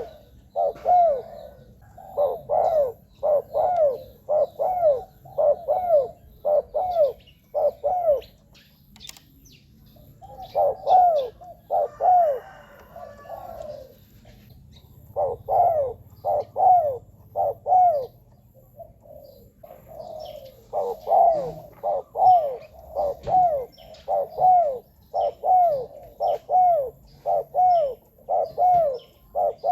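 Spotted dove cooing: long runs of short, arched coos, about two a second, broken by a few short pauses.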